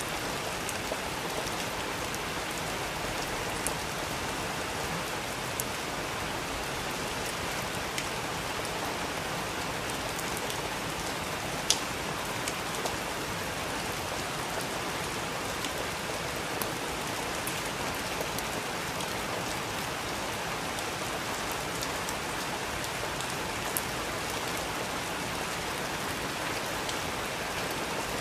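Steady rain falling, an even hiss with scattered sharper drip ticks, one louder drop about halfway through.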